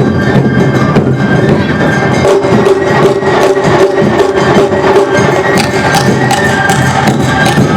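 Awa odori hayashi band playing live: drums and clanging hand gongs strike a dense run of beats under sustained flute and string tones.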